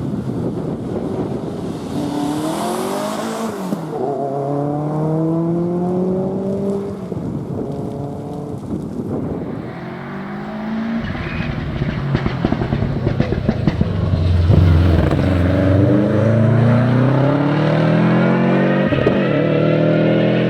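Four-wheel-drive rally car engine accelerating hard through the gears, its pitch climbing and dropping back at each gear change several times, then rising steeply again near the end.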